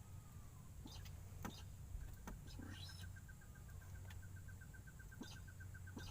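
Birds calling: several short sharp chirps, and from about two and a half seconds in a rapid even run of notes at one pitch, about eight a second, over a low steady hum.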